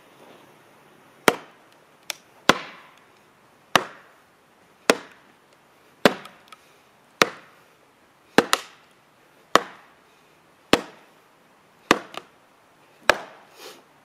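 An axe striking a large log again and again, a sharp chop about once a second, eleven times, with a few lighter knocks between. The log is not yet splitting.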